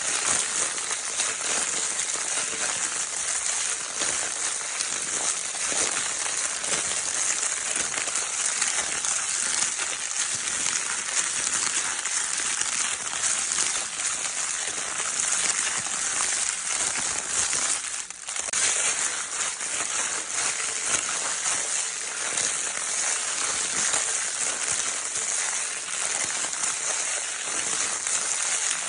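Baby crinkle-paper toy being crinkled continuously: a dense, crackly rustle, high and hissy in character, with a brief lull about two-thirds of the way through.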